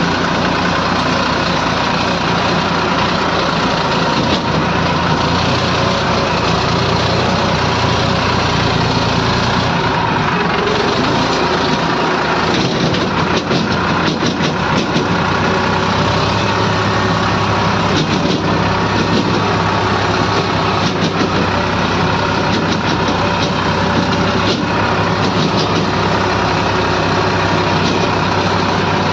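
A large engine, such as a truck's or a construction machine's, running steadily at idle, with a few short knocks and clatters about halfway through.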